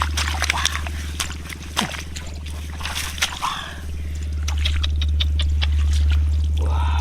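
Splashing and sloshing in shallow muddy water, with many short sharp clicks and slaps, over a steady low hum.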